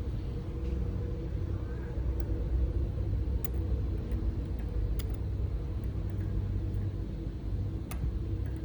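A steady low motor rumble with a faint hum runs throughout. Over it come four or five sharp, light clicks of small metal injector parts being handled during disassembly.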